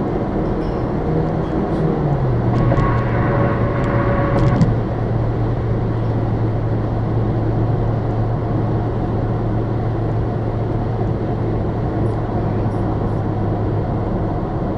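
Car driving, heard inside the cabin: steady road and engine noise. The engine hum drops in pitch about two seconds in and then holds steady. A louder whoosh with a faint whine passes between about three and four and a half seconds in.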